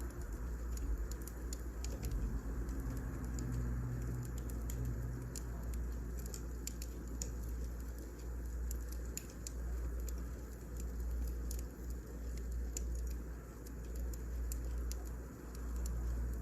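Wood fire burning: scattered, irregular crackles and pops over a steady low rumble.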